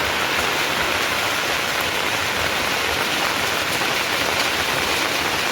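Heavy rain falling: a loud, steady, even hiss.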